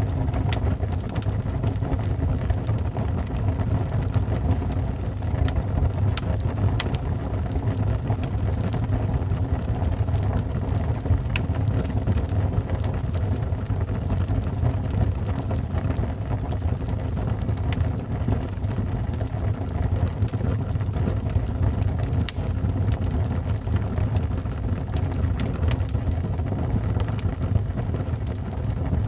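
Wood fire burning in a fireplace: a steady low rumble of flames with scattered sharp pops and crackles from the logs.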